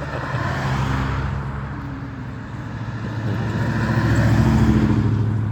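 Classic cars driving past at low speed, their engines running with a low steady note; one comes closer and grows louder, passing about four to five seconds in.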